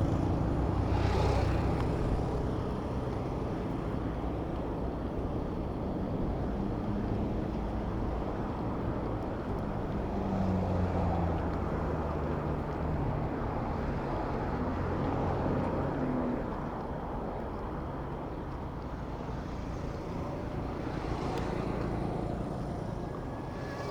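City road traffic heard from a moving bicycle: motor vehicle engines running and passing, a steady rumble whose engine tones rise and fall as vehicles go by, loudest in the middle.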